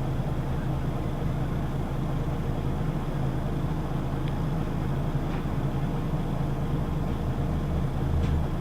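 Scania L94UB city bus running, heard from inside the passenger cabin: a steady low engine drone with a few light clicks or rattles. The low engine note grows stronger near the end.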